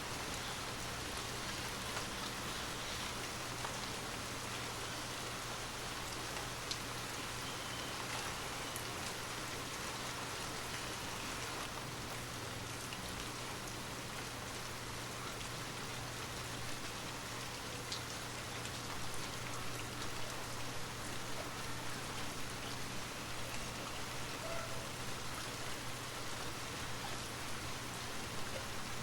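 Steady rain falling, an even patter with scattered drops, growing slightly louder about two-thirds of the way through, over a steady low hum.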